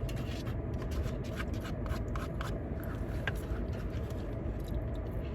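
People eating fried chicken: a few small clicks and crunches over a steady low rumble, with one sharper click about three seconds in.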